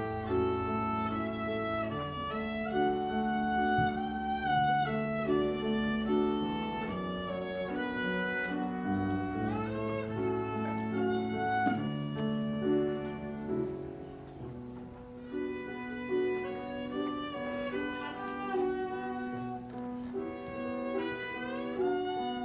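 Violin playing a melody, with a few notes sliding in pitch, over lower accompaniment.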